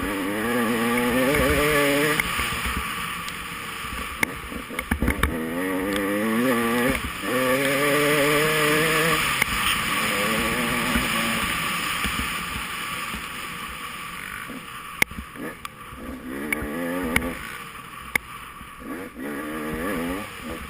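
Off-road dirt bike engine revving up and easing off again and again, rising in pitch as it pulls, over rushing wind noise. Sharp knocks break in now and then.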